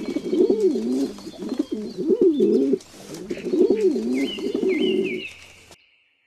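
Pigeon cooing: a low, warbling coo repeated in about three phrases, which stops about five and a half seconds in.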